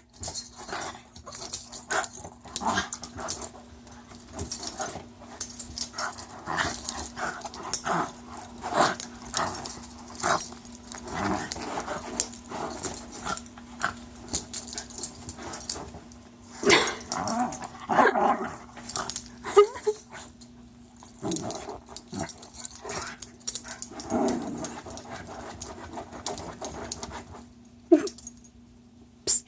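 A dog coughing and hacking in repeated short bouts, with a few brief growly sounds in between. The owner puts the coughing down to probable acid reflux.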